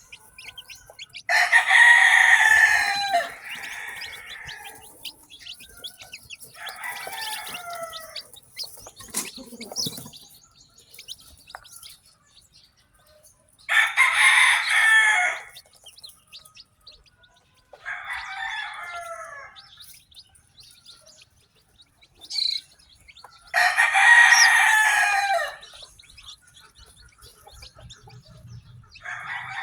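A rooster crowing three times, about ten seconds apart, each crow about two seconds long and the loudest sound. Softer, shorter chicken calls come between the crows, over the high peeping of young chicks.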